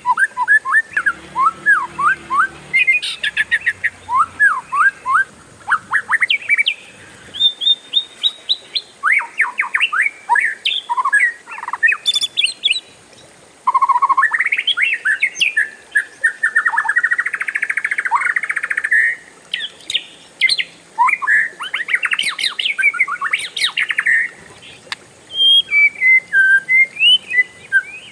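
Oriental magpie-robin (kacer) singing a varied song of quick down-slurred whistles and chirps in rapid runs, with a long dense rolling trill a little past the middle.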